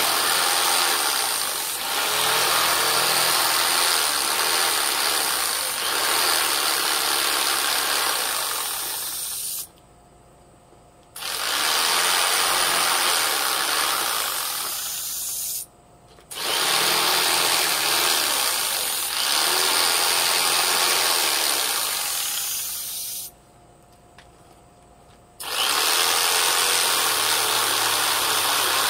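Handheld electric power tool working wood, running in long stretches and switched off three times in between.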